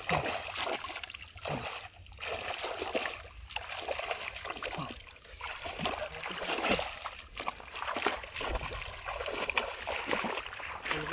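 Shallow muddy water splashing and sloshing in irregular bursts with short lulls, as hands grope through flooded paddy-field water after fish.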